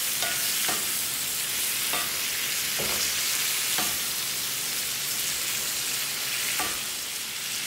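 Chicken gizzards sizzling steadily in oil, soy sauce and vinegar in a stainless steel sauté pan, stirred with a wooden spatula that scrapes and knocks against the pan several times.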